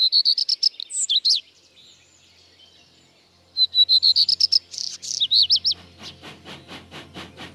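A songbird sings two whistled phrases, one at the start and one a few seconds later, each a run of repeated high notes ending in quick up-and-down sweeps. Near the end a fainter regular ticking begins, about four ticks a second, over a low hum.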